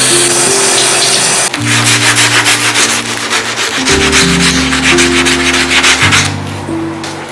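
Rapid, rhythmic back-and-forth scrubbing with a brush on bathroom surfaces. It is preceded by a steady hiss in the first second and a half.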